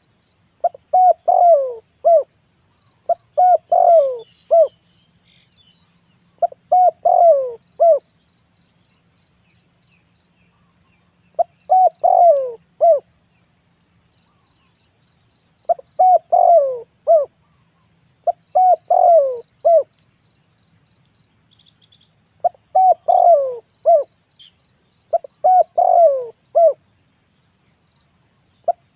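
Spotted dove cooing: about nine short phrases of three to five mellow falling notes, repeated every couple of seconds with one longer pause, and faint high chirps from other small birds.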